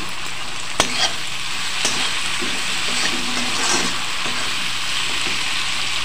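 Onions, tomatoes and whole garlic bulbs sizzling steadily in mustard oil in a metal kadhai. They are stirred with a metal spatula that scrapes and knocks against the pan a few times.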